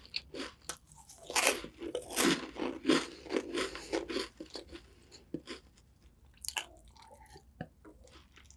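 Close-miked chewing of a crunchy snack: rapid, loud crunches for the first five seconds or so, then thinning out to a few soft mouth clicks.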